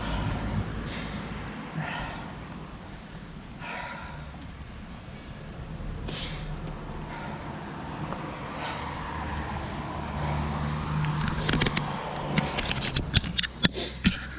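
A road cyclist breathing hard near the top of a hill climb, with loud exhalations every couple of seconds over steady wind and road rumble. Near the end comes a run of sharp clicks and taps.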